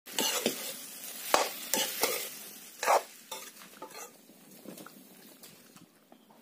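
Curry frying and sizzling in a wok while a spatula stirs it, knocking and scraping against the pan several times in the first three seconds. After that the sound fades to fainter clicks and scrapes.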